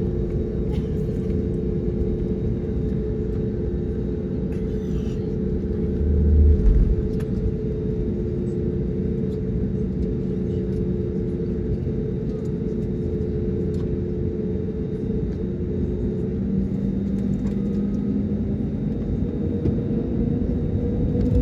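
Airliner's jet engines droning steadily over a low rumble, with a brief low bump about six seconds in; the engine tones shift in pitch about sixteen seconds in and begin to rise near the end.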